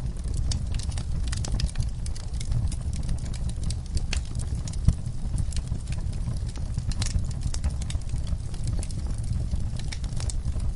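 Wood fire burning in a fireplace: a steady low rumble of flames with irregular sharp crackles and pops, one louder pop about five seconds in.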